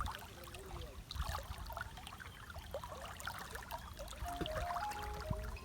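Water trickling and splashing in a small stream, a steady flow full of small splashes.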